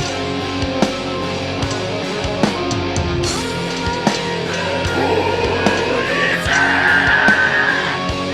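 Live metal band playing: guitars and bass over a drum kit, with a high note held for about two seconds near the end.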